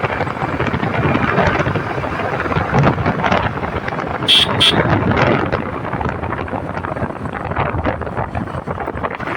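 Riding a motorcycle at speed: wind buffeting the microphone over the running engine. About four seconds in, two short high beeps sound, one right after the other.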